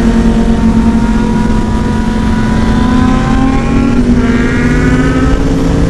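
Yamaha R1 inline-four sport bike with a Toce slip-on exhaust pulling under acceleration, the engine note rising slowly in pitch. The note changes about four seconds in, then holds steadier.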